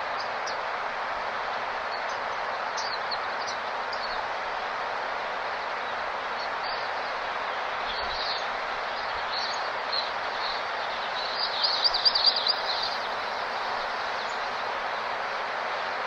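Small birds chirping in short, high calls over a steady background noise, with a quick burst of rapid twittering about three-quarters of the way through that is the loudest sound.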